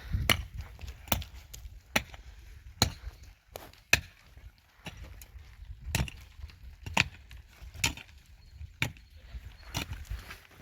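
A series of sharp knocks or blows, about one a second and unevenly spaced.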